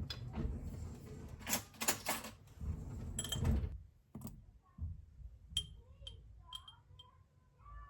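Household handling sounds: rustling and knocking for a few seconds, then about five light clicks with a short ring, like dishes or utensils being set down.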